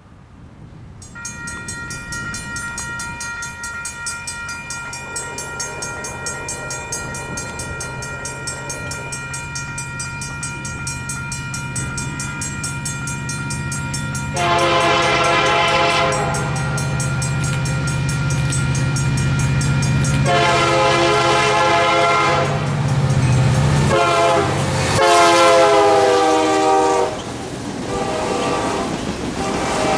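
Union Pacific diesel freight locomotive approaching, its engine rumble growing louder while a steady bell rings. About halfway through, the locomotive's air horn sounds a long blast, then another long blast, a third blast and a short one near the end, the usual grade-crossing warning.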